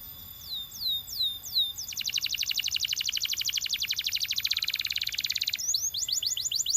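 Male domestic canary singing. A few falling whistled notes lead into a long, very fast rolling trill of rapidly repeated high notes. This breaks about five and a half seconds in into quick, sweeping falling notes.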